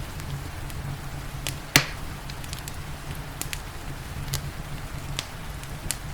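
Wood fire crackling with scattered small pops and one loud snap about two seconds in, over a steady low rumble.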